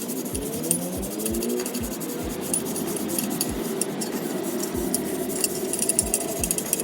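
Stainless steel motorcycle muffler being polished by hand: scratchy rubbing with irregular light metallic clinks and taps.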